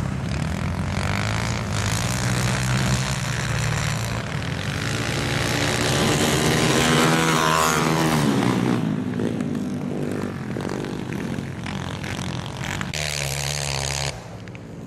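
Racing motorcycle engines running hard, several at once, with the pitch rising and falling as they rev through the corners and straights. The sound drops suddenly near the end.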